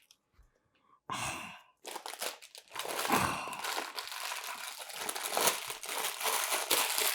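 Packaging crinkling and rustling as it is handled: a short burst about a second in, then steady crackly crinkling from about two seconds on.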